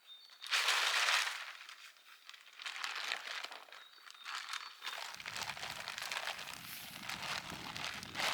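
Irregular crinkling and rustling with many small clicks, loudest about a second in; a low rumble joins about five seconds in.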